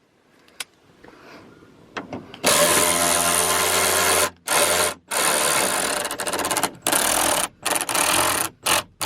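Power drill with an Allen bit running in about six short bursts, starting about two and a half seconds in, as it snugs down a 4 mm Allen-head bolt.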